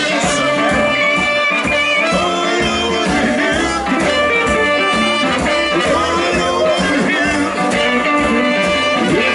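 Blues band playing live: electric guitar and horns over a steady beat.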